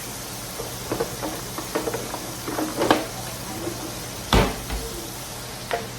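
A utensil clinking and knocking against a pan as garlic is stirred in butter and oil, with one louder knock about four seconds in, over a steady hiss.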